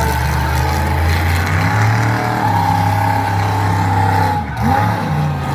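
Monster truck engine running hard at high revs, holding steady, then dropping off briefly and picking back up about four and a half seconds in.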